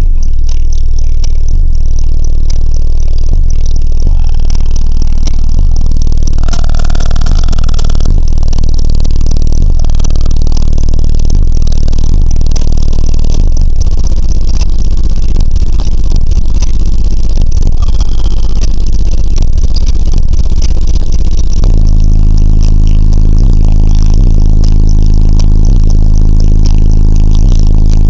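Very loud low bass from a car audio system's subwoofers, overloading the recording, with a steady pounding low pitch that shifts to a fuller, buzzier tone about three-quarters of the way through.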